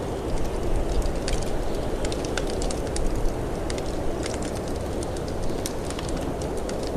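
Snowstorm wind blowing steadily with low gusts, under a wood fire crackling with frequent sharp pops and snaps.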